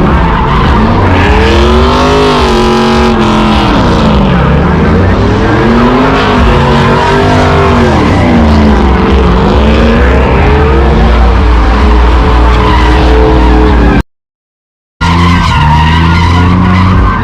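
A vehicle engine revving up and down again and again, with tyres skidding. The sound cuts out completely for about a second near the end, then comes back.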